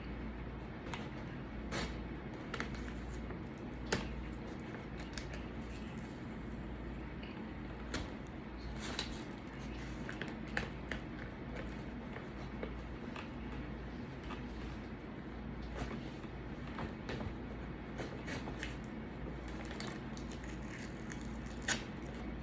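Close-up eating sounds: chewing and mouth smacks with scattered short clicks and small rustles, over a steady low hum.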